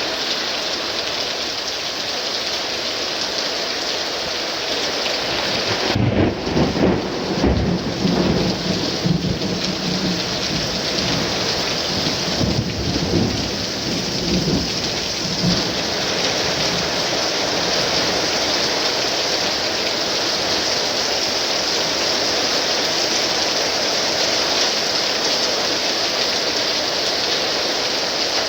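Heavy rain pouring down steadily in a thunderstorm. About six seconds in, a roll of thunder rumbles for roughly ten seconds, then fades back into the rain.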